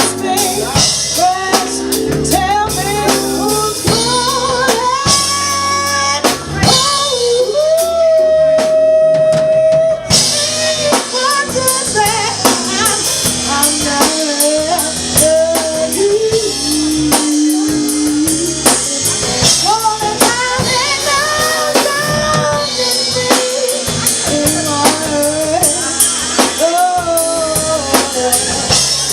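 Live band playing: drum kit and bass under a singer's wavering melody. About a third of the way in the drums drop out for a couple of seconds under one long held note, then the full band comes back in.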